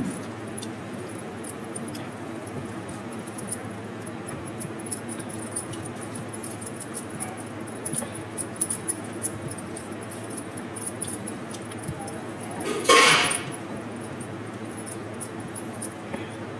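Eating sounds: many small clicks and clinks, in the manner of eating with hands or a spoon from a plate, over a steady low background. There is one louder, brief noise about thirteen seconds in.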